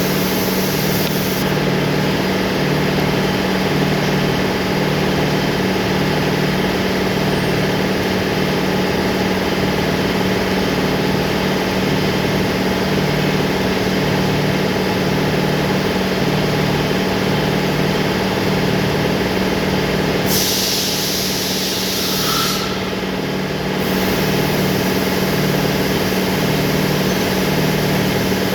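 A machine running steadily with a regular pulsing hum. About twenty seconds in, a spray-like hiss lasts about two seconds.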